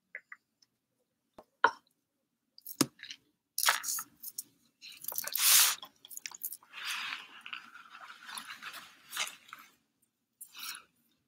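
A drink sipped from a paper cup, then chewing close to the microphone. A few separate mouth clicks come first, followed by several seconds of denser crunchy chewing noise.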